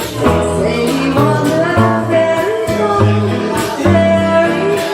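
Live trio music: guitar and bass playing a slow jazz song, with a woman singing over them.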